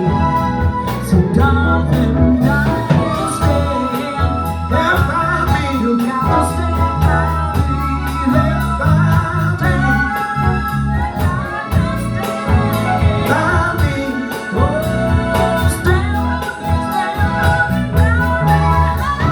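Band music with a singer: a vocal line over a steady bass and drum beat.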